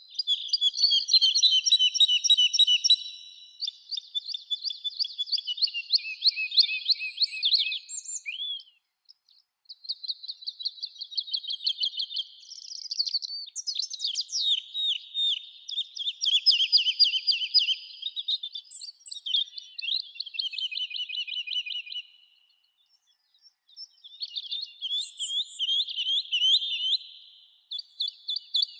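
Songbird singing long phrases of rapid, high trilled notes, separated by brief pauses.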